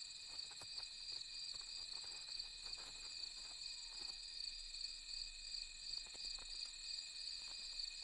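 Faint night chorus of crickets and other insects: several steady, high trills that run on without a break, with a few small scattered clicks.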